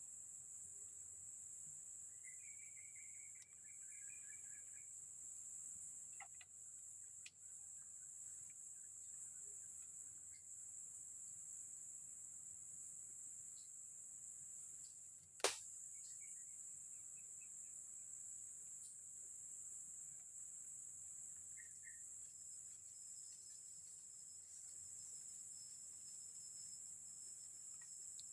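Faint, steady high-pitched insect chorus of crickets or cicadas in the forest, with a few short bird chirps and one sharp click about halfway through.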